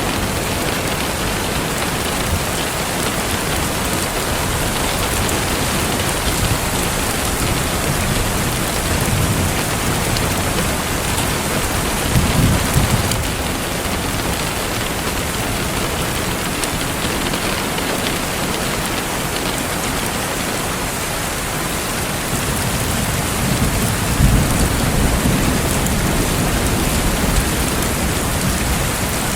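Steady heavy rain falling, with low rolls of thunder rumbling three times, about a third of the way in, near the middle and in the last part.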